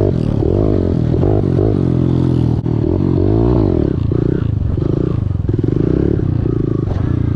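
Small four-stroke pit bike engine, about 110 cc, revving up and down under a rider on a dirt track, its pitch rising and falling again and again with several held, steady revs in the second half.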